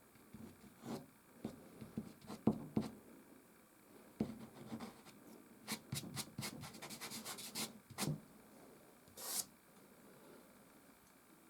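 Soft pastel sticks rubbing and stroking across canvas in scattered short strokes, with a quick run of fast, sharp strokes in the middle and a brief hiss near the end.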